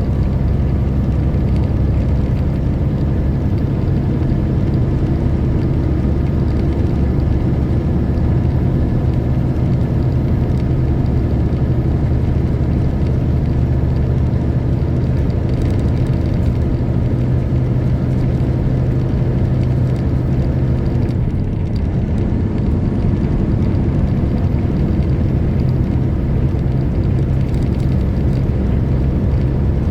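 Semi truck's diesel engine running steadily under way, a constant low drone, with a short break in the engine note about two-thirds of the way through.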